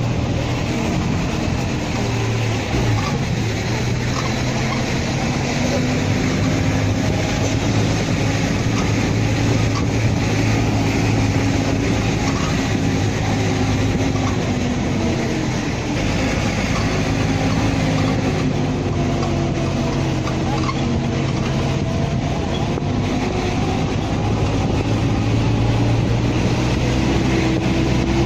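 Motor vehicle running on the move, a steady engine drone with road noise, its pitch slowly rising and falling.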